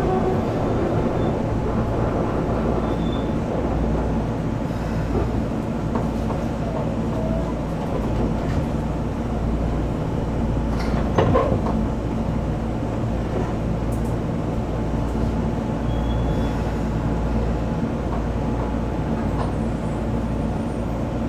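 Onboard running noise of a Keisei 3400-series electric train: a steady rumble from the running gear, with a few clicks over the rails and one louder clunk about eleven seconds in.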